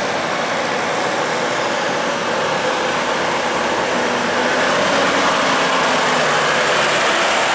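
Heavy truck engine running steadily under load, with heavy road and rumble noise, getting a little louder about four and a half seconds in.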